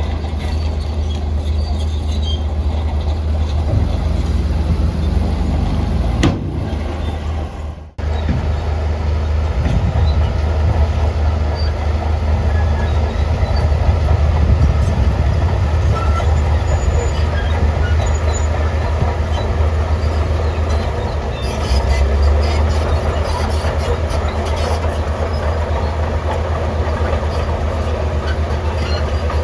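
Heavy diesel earthmoving machine running steadily with a deep engine drone. The sound breaks off for a moment about eight seconds in, then carries on.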